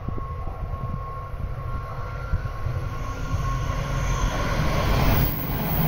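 E5 series Shinkansen approaching at high speed and passing close by: a low rumble with a rushing noise that builds from about three seconds in, loudest near the end.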